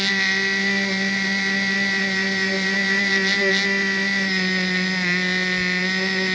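Small power tool spinning a cork polishing bit to buff cured pit-filler resin off a windshield chip repair: a steady motor whine whose pitch sags slightly twice past the middle as the cork is pressed to the glass.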